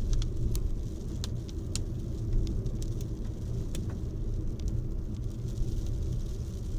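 Rain and wind: a steady low rumble with scattered sharp ticks over the first few seconds.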